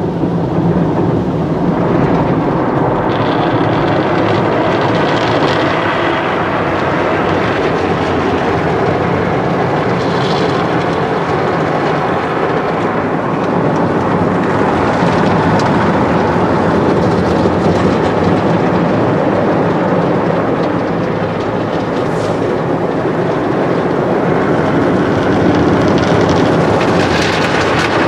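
Automatic car wash at work: spinning soft foam brushes and water spray washing over a car, a loud steady rumble and swish.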